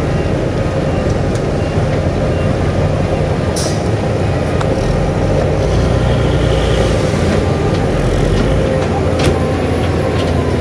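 Heavy diesel earthmoving machinery running steadily under load, with a few brief sharp clanks or hisses.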